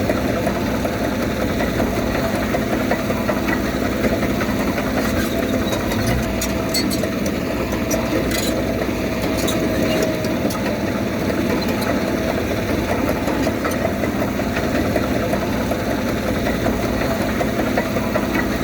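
Komatsu D31P bulldozer's diesel engine running steadily, with a few light clicks about a third of the way through.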